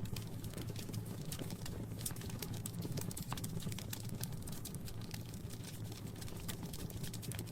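Wood fire crackling in a fireplace: irregular pops and snaps over a low, steady rumble.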